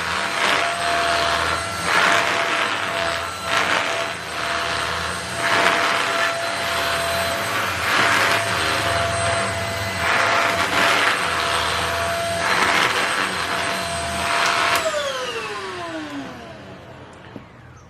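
Handheld mattress vacuum cleaner running with a steady whine, its suction noise swelling and easing every couple of seconds. About fifteen seconds in it is switched off and the whine falls away as the motor spins down.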